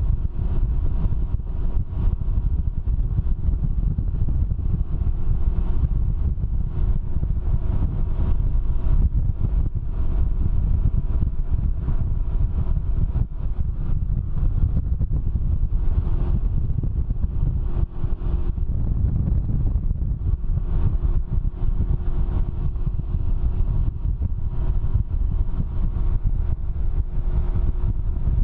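Can-Am Ryker three-wheeled motorcycle being ridden: a steady low drone from the engine under heavy wind rumble on the microphone.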